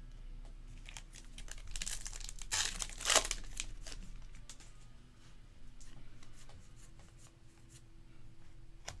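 A trading card pack's wrapper being torn open and crinkled, loudest about three seconds in, followed by lighter scattered crinkles and clicks.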